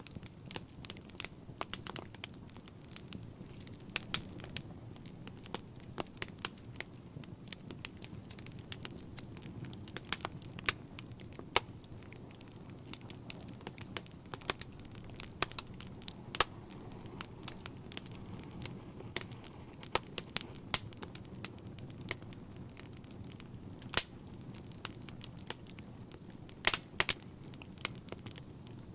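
Wood fire burning in a fireplace: irregular crackles and sharp pops over a low steady rumble of flames, with a couple of louder snaps close together near the end.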